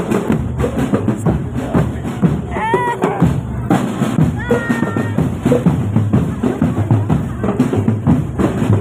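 Marching drum band playing on the move: bass drums and snare drums beating a fast, steady rhythm.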